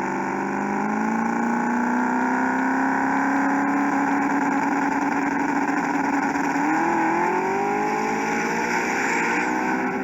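Car engine running loud at a steady pitch, then revving higher about seven seconds in.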